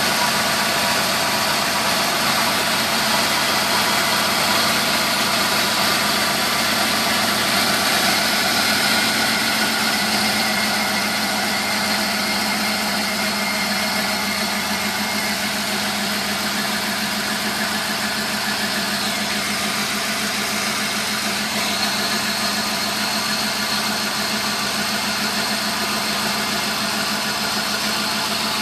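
Turbocharged 5.8-litre V8 of a 1993 Ford F-150 Lightning idling steadily, a little quieter after about ten seconds.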